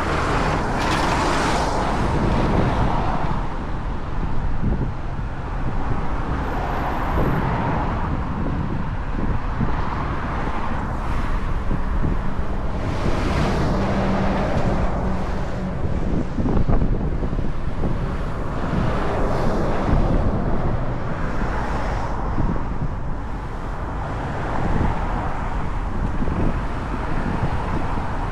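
Wind rushing and buffeting over the microphone while riding a motorcycle, with engine and road noise underneath. The wind swells and eases every few seconds.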